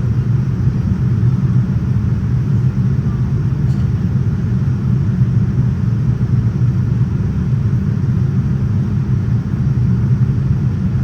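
Steady low cabin rumble inside a Boeing 787-9 airliner in flight, the even roar of airflow and engines heard from a passenger seat.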